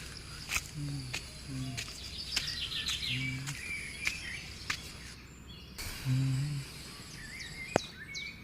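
Morning countryside ambience: small birds chirping and twittering, with a few short low-pitched calls and some sharp clicks among them.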